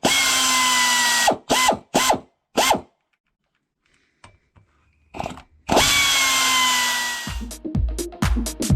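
Pneumatic (air) ratchet run in bursts: two long runs and several quick blips, each with a motor whine that sags slightly under load and dies away as the trigger is released. Rhythmic background music with a low beat comes in near the end.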